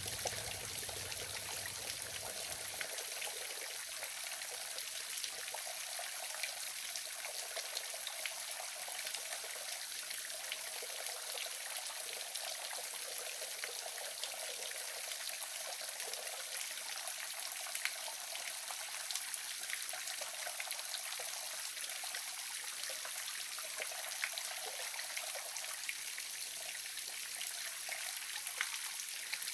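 Waterfall: water falling and splashing in a steady hiss, with small splashes ticking through it.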